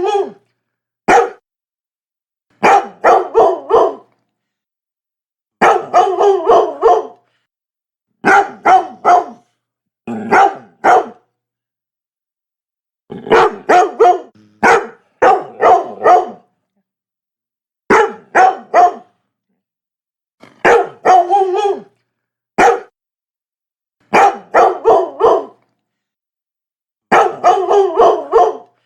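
Labrador barking in repeated bouts of two to six sharp barks, with short silent gaps between the bouts.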